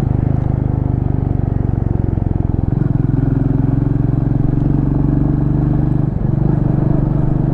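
Motorcycle engine running steadily under load, its note shifting about three seconds in and dipping briefly about six seconds in. The bike is working uphill in low gears, carrying luggage and a pillion.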